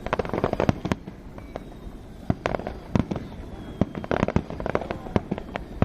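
Fireworks going off: a string of sharp bangs, with bursts of crackling shortly after the start and again about four seconds in.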